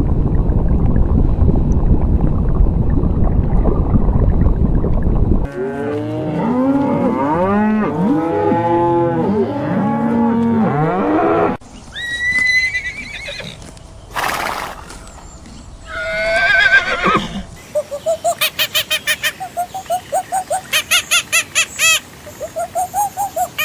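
A sequence of animal calls. A loud low rumbling noise runs for the first few seconds, then many overlapping rising-and-falling calls, a few single calls, and near the end a quick run of repeated high chirps, a few each second.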